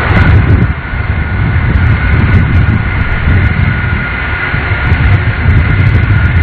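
Boeing 747 Shuttle Carrier Aircraft's four jet engines running on the ground after landing: a heavy, uneven low rumble with a steady high whine over it.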